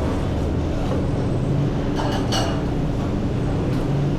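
Steady low engine rumble, with a couple of faint clinks about two seconds in.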